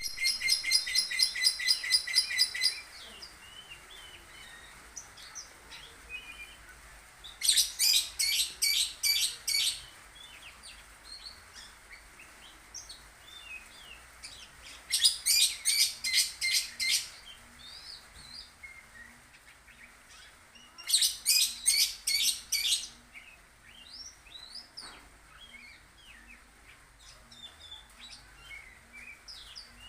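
Lovebird calling in four bouts of rapid, high-pitched chirps, about four or five a second, each bout lasting around two seconds, with softer scattered chirps between the bouts.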